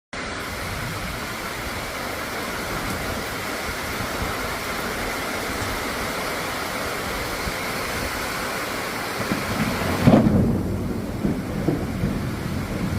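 Heavy rain falling in a steady hiss. About ten seconds in, the hiss drops away and a loud, low, uneven rumble of thunder rolls on.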